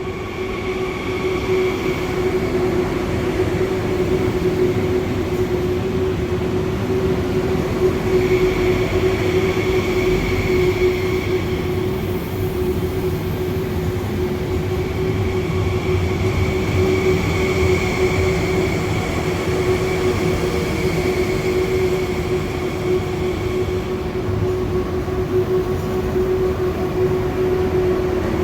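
High-speed electric train pulling in at an underground station platform: a steady electric hum over the rumble of wheels on rail.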